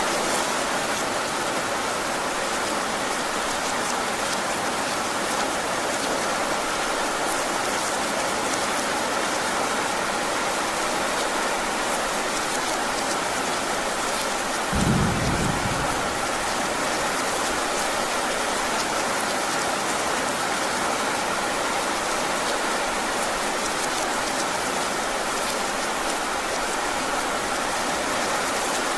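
Heavy rain falling steadily, with one short, low rumble of thunder about halfway through.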